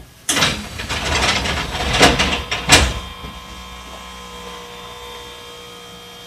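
Tokyu 1000 series train standing at a station platform: for about three seconds a loud, noisy clatter with two sharp knocks, then the car settles into a steady low hum with faint whining tones from its equipment at rest.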